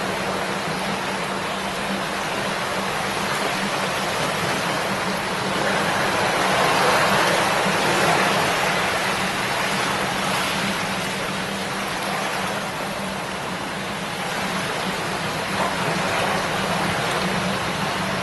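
A shallow river or stream babbling and rushing steadily, the water swelling a little louder for a few seconds around the middle.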